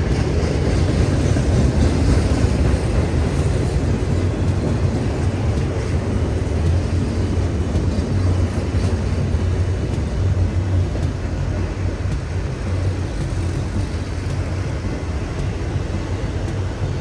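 Freight train rolling past, a steady low rumble that slowly eases off.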